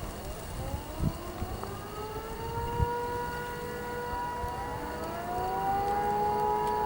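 Cessna Citation CJ1's Williams FJ44 turbofan engines spooling up: a whine rises in pitch and levels off, then a second rising whine follows about four seconds later and holds steady.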